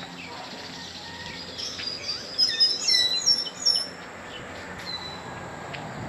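A bird chirping: a quick run of short, high, sliding chirps between about two and four seconds in, over a steady outdoor hiss.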